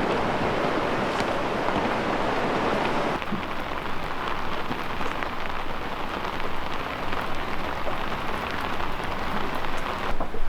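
Heavy rain pouring down in a steady hiss, with scattered ticks of drops. About three seconds in the hiss turns thinner and quieter.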